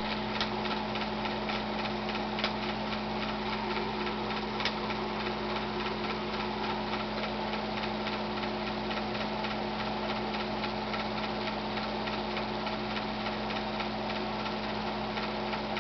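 Film projector running: a steady hum with rapid, even ticking from the mechanism and a few louder clicks.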